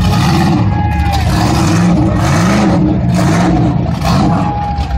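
Truck engine revving hard, its pitch rising and falling several times.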